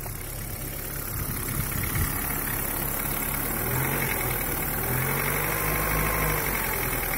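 Daewoo Nexia 8-valve engine idling cold, running steadily with a knock in it, which the owner puts down to the crankshaft.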